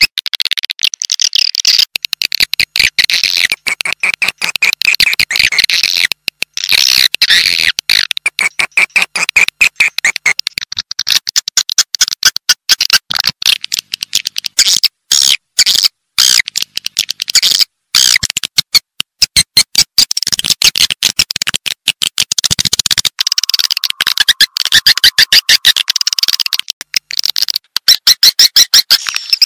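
Edible-nest swiftlets twittering: a dense, rapid chatter of clicking chirps with a few brief breaks. This is a swiftlet-house call recording, played to lure swiftlets into a nesting building.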